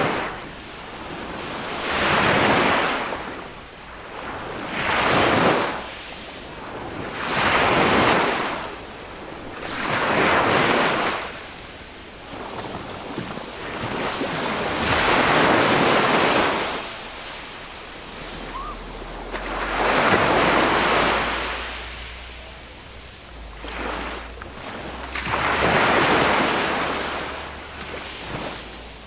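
Small waves from a calm sea breaking and washing up the beach, each wash rising and falling away every two to three seconds, one of them longer about halfway through.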